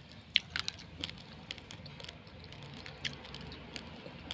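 Close-up chewing of uncooked rice grains: irregular sharp crunches as the hard grains crack between the teeth, the loudest about half a second in.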